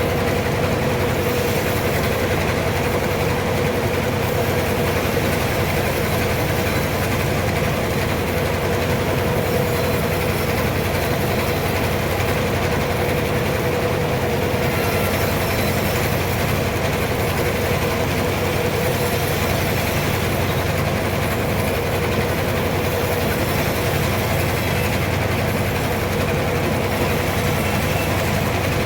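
Sawmill machinery running steadily: a constant low drone with a steady whine above it that does not change.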